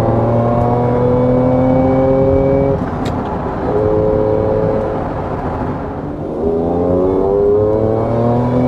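Supercharged Acura NSX V6 accelerating under load, its engine note rising in pitch, breaking off about three seconds in and again around six seconds, then rising again. It pulls cleanly with no misfire heard after the plug and front coil change.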